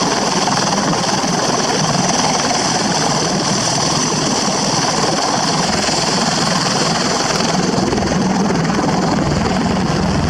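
Steady vehicle noise, loud and unbroken, with a deeper rumble coming in about eight seconds in.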